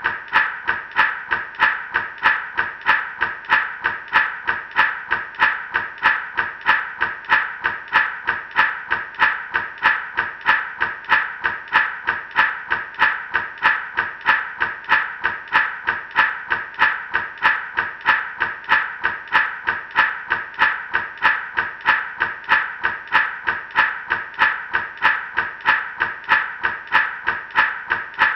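Gourd rattle shaken in a steady, even rhythm, about two to three shakes a second, each a crisp burst of seeds rattling inside the dry gourd.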